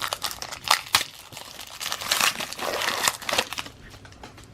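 A trading-card pack's wrapper being torn open and crinkled by hand: a run of crackling rustles that dies down about three and a half seconds in.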